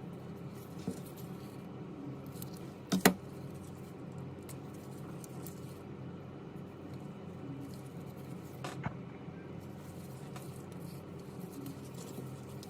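Small sharp clicks and taps of tools and parts being handled during a phone repair, over a steady low hum. A loud double click about three seconds in is the loudest, with a few lighter clicks near the end.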